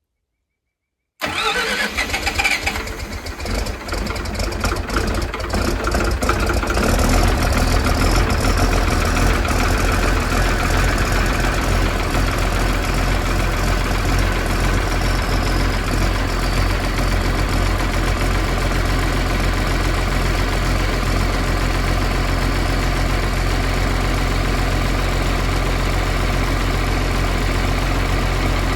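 Diesel engine of a logging processor cold-starting after a freezing night: it turns over unevenly for about five seconds, catches, and settles into a steady idle.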